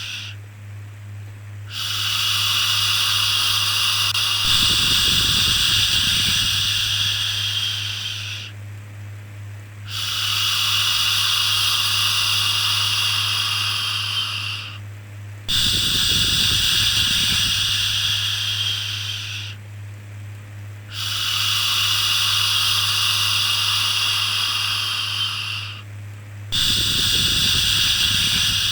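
Long, drawn-out "shhh" shushing sounds made to soothe a baby, repeated about five times, each lasting four to six seconds with a short pause between. A steady low hum runs underneath.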